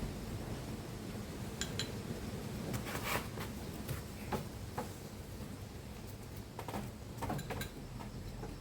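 Scattered light clicks, knocks and clinks, irregularly spaced, over a low steady hum.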